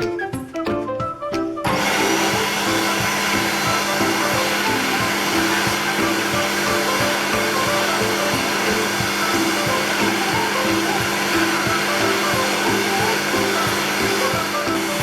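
Electric hand dryer switching on about two seconds in and blowing steadily, a loud, even rush of air over a low motor hum, with background music playing underneath.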